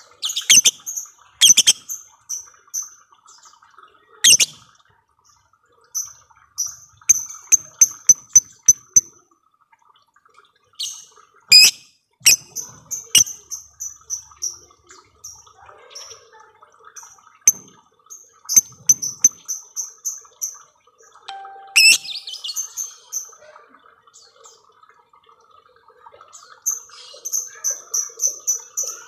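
Lovebird chattering in trains of rapid, high-pitched repeated chirps, the long 'ngekek' call, broken by sharp loud clicks and short pauses.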